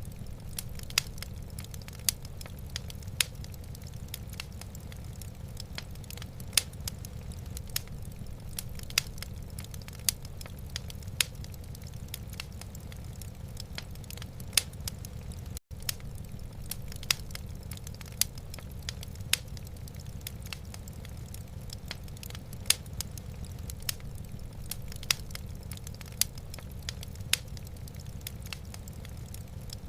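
Wood fire burning in a fireplace, crackling with frequent sharp pops over a steady low rumble. The sound cuts out for an instant about halfway through.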